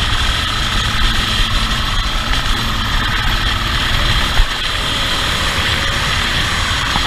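Steady vehicle engine and road noise, with one short knock about four and a half seconds in.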